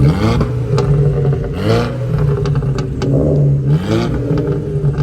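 VW Scirocco R's turbocharged 2.0-litre four-cylinder running with an induction kit and a decat straight-through exhaust, idling and blipped up in revs three times, about a second and a half apart.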